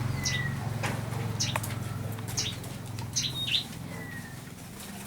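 Caged songbirds in a breeding aviary giving short, sharp chirps and a couple of brief falling whistled notes, over a low steady hum.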